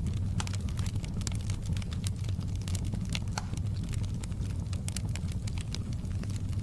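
Wood fire burning in a fireplace: many sharp, irregular crackles and pops over a steady low rumble.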